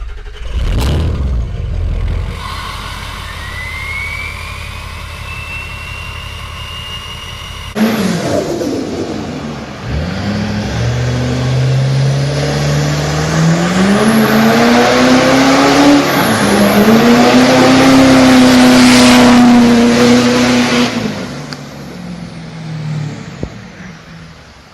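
Diesel pickup truck engines. First a low engine rumble with a whistle rising in pitch over a couple of seconds; then, after a cut, a truck accelerating hard, its engine pitch climbing, dropping once at a gear change, then held high and loud before fading away.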